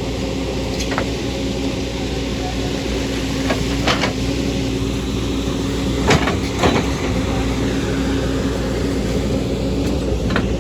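Excavator diesel engine running steadily under load, with several sharp knocks and clanks, the loudest about six seconds in.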